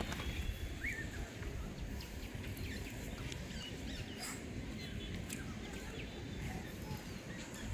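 Outdoor ambience of scattered short bird chirps over a steady low rumbling noise, with a few faint clicks.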